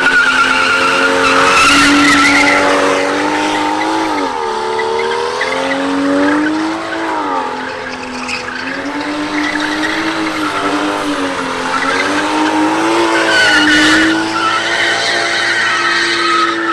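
Car tyres squealing in one long continuous skid, the pitch wavering slowly up and down.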